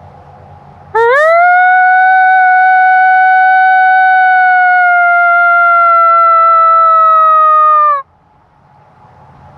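A single long coyote howl blown on a mouth diaphragm call: it swoops up sharply at the start, holds nearly level for about seven seconds, then sags slightly and cuts off.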